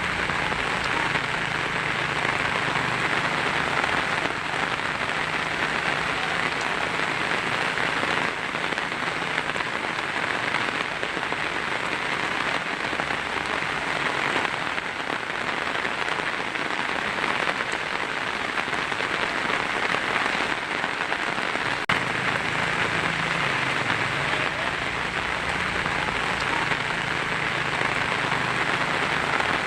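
Heavy rain falling steadily on a tin roof, a dense, even patter with no breaks or single loud strikes.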